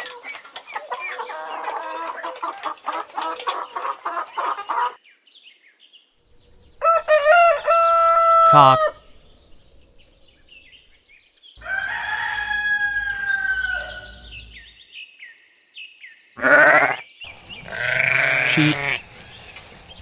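A flock of hens clucking and chattering for about the first five seconds, then a rooster crowing several times, each crow a long call with one or two shorter ones near the end.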